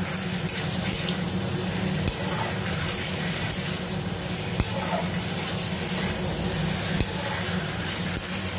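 Chopped vegetables sizzling in hot oil in a kadai while a metal spatula stirs and sautés them with spices, with a few sharp clicks of the spatula against the pan.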